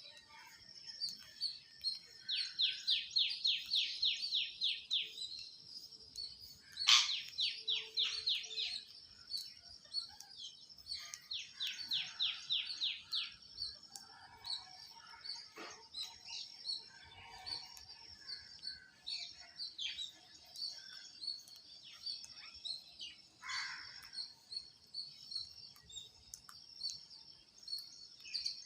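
High-pitched chirping goes on throughout, with three runs of about ten quick falling chirps, each run lasting two to three seconds, and a few single calls in between.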